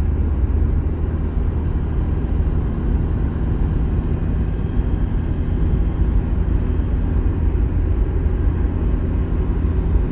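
A car driving along a road: a steady low rumble of engine and road noise, even throughout.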